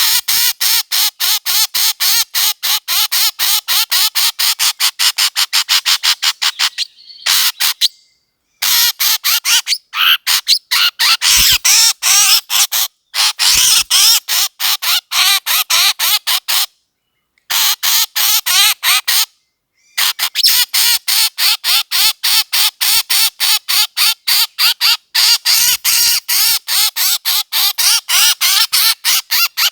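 Recorded bird calls used as a hunting lure: one kind of bird's sharp call repeated rapidly, about five a second, in long runs broken by a few sudden short silences.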